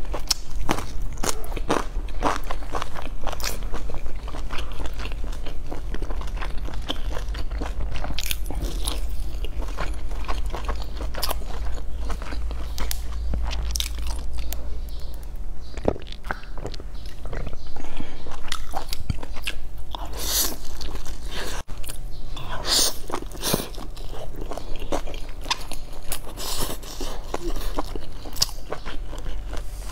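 Close-up chewing and biting into large pan-fried buns: a steady run of crunchy bites and wet mouth sounds as the crisp browned crust and filling are chewed. Under it is a steady low hum.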